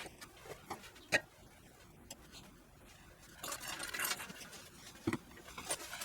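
Scattered light clinks and knocks, like metal tools or parts being handled during bodywork. A short rustling scrape comes about three and a half seconds in, and a knock near the end.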